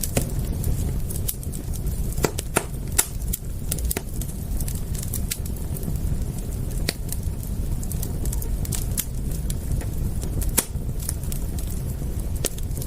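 Wood campfire crackling, with sharp pops at irregular intervals, several close together around the middle, over a steady low rumble.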